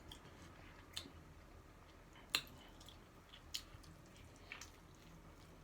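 Close-up mouth sounds of someone chewing a taco: a few soft, wet clicks and smacks, the sharpest about two and a half seconds in.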